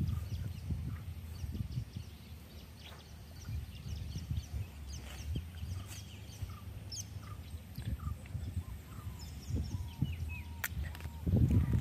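Several birds chirping and calling with short, quick notes, over a low rustling rumble that comes and goes and swells near the end.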